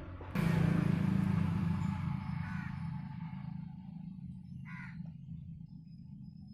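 Motor vehicle passing close by: a sudden loud rumble starts about half a second in and slowly fades away.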